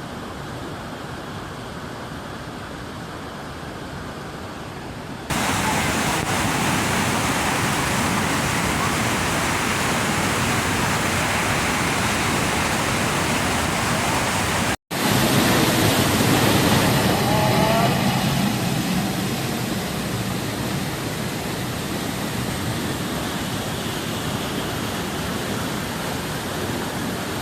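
Roar of the Iguaçu Falls: a steady rushing of falling water. It becomes suddenly louder about five seconds in, cuts out for an instant about fifteen seconds in, and resumes at its loudest before easing off slightly.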